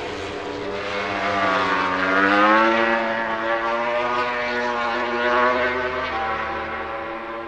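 A MotoGP prototype race bike's four-cylinder engine running at high revs on track. The pitch climbs to a peak about two and a half seconds in, falls away, then rises and drops again near the six-second mark.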